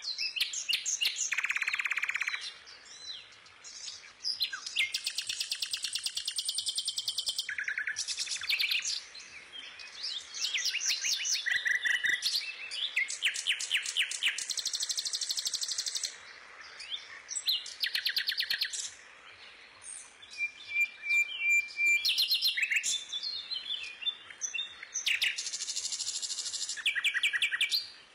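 A songbird singing long phrases of rapid high trills and chirps, with short pauses between phrases.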